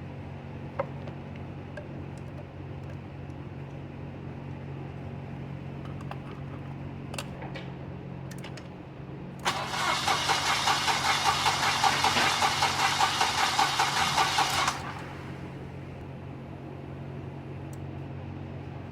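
The starter of a 2016 Ford F-150 cranks the engine for about five seconds with an even, rapid pulsing, then cuts off suddenly without the engine catching: a crank-no-start. A steady low hum runs underneath.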